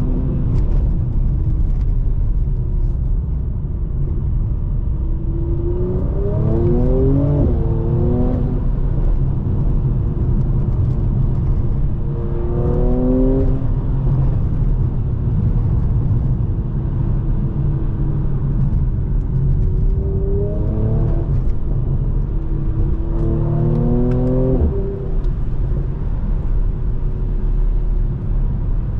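2020 Mercedes C43's 3.0-litre twin-turbo V6 and road rumble as the car is driven, with the engine note climbing in pitch four times as it pulls under acceleration.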